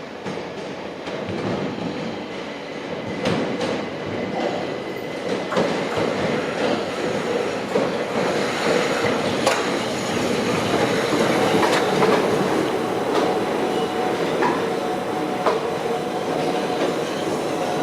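A train moving slowly through the station, its wheels clicking over rail joints and points with a thin squeal, getting louder over the stretch.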